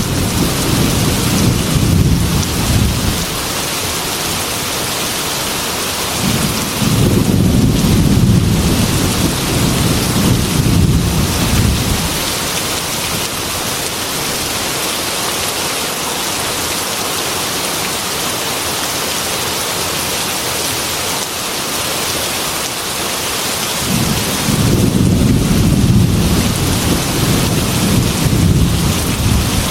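Heavy rain on a glass window, a steady hiss, with low rolling thunder rumbling three times: at the start, for several seconds from about six seconds in, and again near the end.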